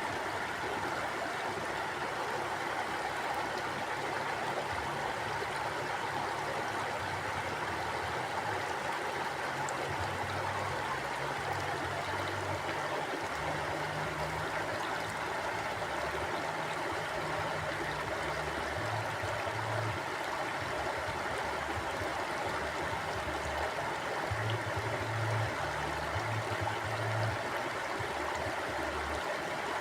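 Mountain stream flowing steadily, with a low, uneven rumble underneath the rush of the water.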